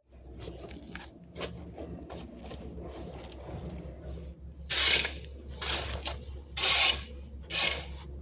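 Repeated rasping scrapes: faint at first, then four loud strokes about a second apart in the second half, over a steady low hum.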